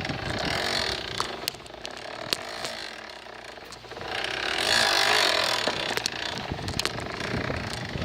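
A bicycle's rear brake rubbing against the turning back tyre as the bike rolls: a rasping whir that swells about halfway through, with scattered clicks. The brake holder has shifted so the brake drags on the tyre.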